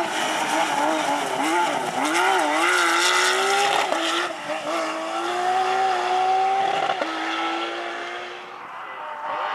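Rally car engine at full throttle on a stage, its pitch swinging up and down for the first few seconds, then climbing in one long steady pull. It cuts off sharply about seven seconds in and the sound dies away.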